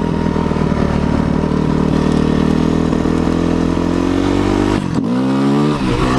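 Motorcycle engine running under throttle, its pitch rising steadily, then dropping sharply about five seconds in and climbing again.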